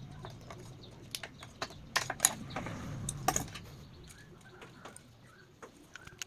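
Irregular light clicks and taps of small hard parts being handled, with a few sharper clicks about two and three seconds in, over a low hum that fades out in the first few seconds.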